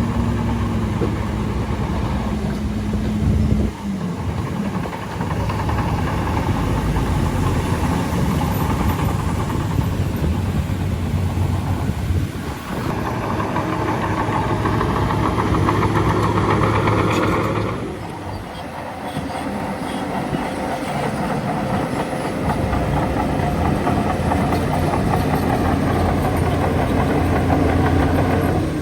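Bulldozer diesel engines running under load, with the clanking of steel tracks. The engine note shifts a few times, and the clatter is heaviest past the middle.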